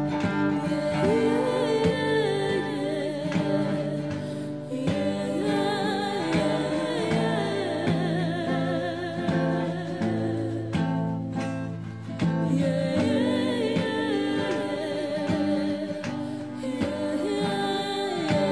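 Song passage of acoustic guitar with percussion under a sung vocal line that wavers in pitch, without clear words.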